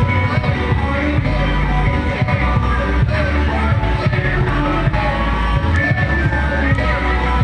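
Loud music with singing over a heavy, booming bass, played through a large carnival sound system.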